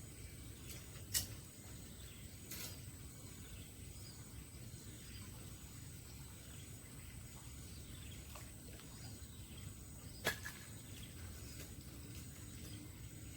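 Quiet outdoor ambience: a low rumbling haze with a steady high-pitched whine and faint chirps, broken by two sharp clicks, one about a second in and one near the end.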